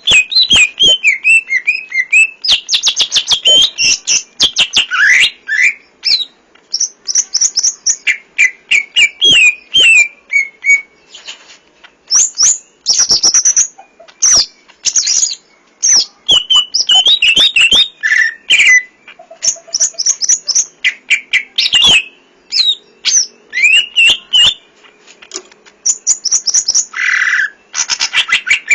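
Green leafbird (cucak ijo) singing a loud, varied song of rapid chirps, whistled sweeps and sharp clicking notes in phrases broken by short pauses, packed with mimicked calls of other birds.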